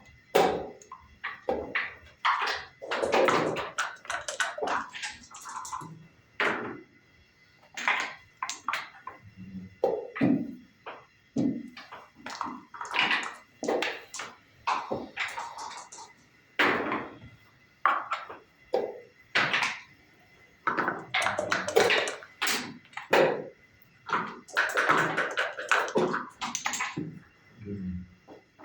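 Backgammon being played: dice rattled and thrown and wooden checkers clicked onto the board, a fast string of taps and clattering rattles with short pauses between moves.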